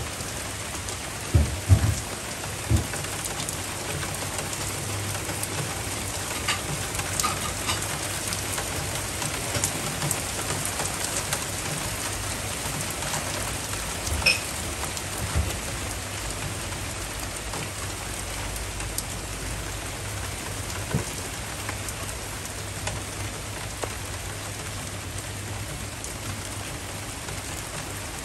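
Heavy rain falling steadily, with a few louder knocks in the first three seconds.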